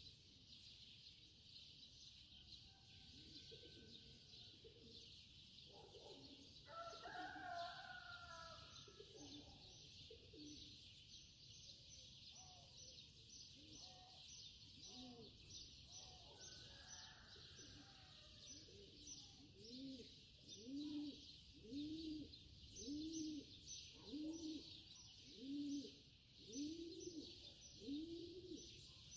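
Faint birdsong: a steady high chirping, with a low cooing call repeated about once a second through the last third.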